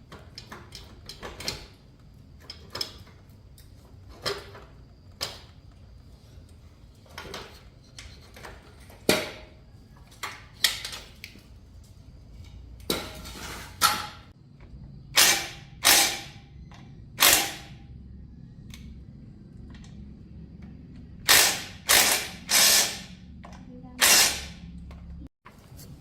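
Hand tools working on a motorbike: irregular light metal clicks, then a run of short, louder ratcheting bursts, each under half a second.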